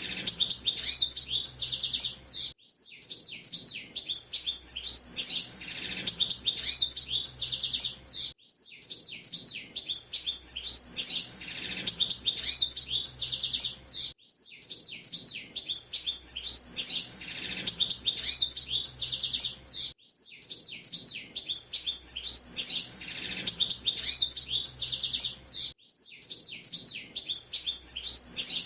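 Hooded siskin (pintassilgo) singing: long runs of fast, high, twittering and trilling notes, broken by short pauses about every six seconds.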